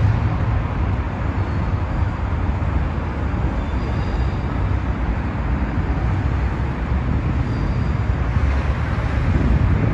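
Docklands Light Railway train running, a steady rumble with strong low-end noise that holds level throughout.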